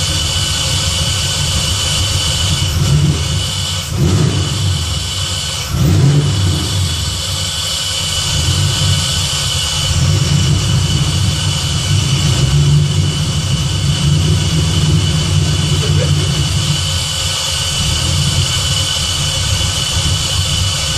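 Supercharged 4.6-litre DOHC V8 of a Terminator-swapped Fox-body Mustang running at a steady idle, with a few short surges in the first six seconds. The engine is being run up to temperature while air is burped out of its cooling system.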